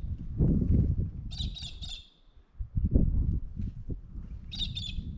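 A bird calling twice, each call a quick run of three or four harsh, high notes, over a steady low rumble.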